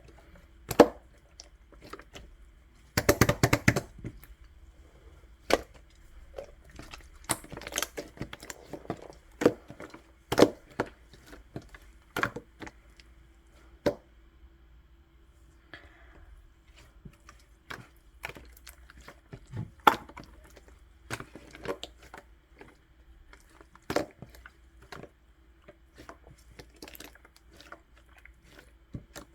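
Elmer's glue slime being squished and pressed by hand, with irregular sticky pops and crackles. A dense run of crackling comes about three seconds in, and a faint steady hum lies underneath.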